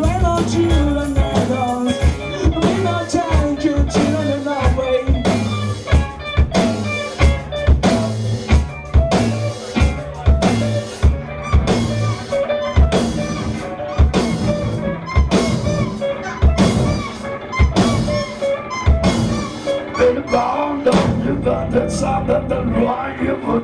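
Live rock band jamming: a drum kit keeps a steady beat under bass and electric guitars. About three seconds before the end the drumming drops out, leaving a held low note.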